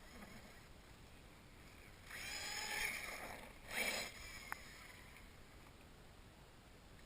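A 1/8 scale RC monster truck's motor whining in two short bursts of throttle, the second shorter and louder, followed by a single sharp click.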